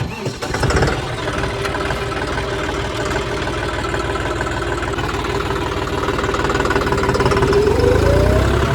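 Diesel tractor engine running close by with a steady, even chug; the revs climb near the end.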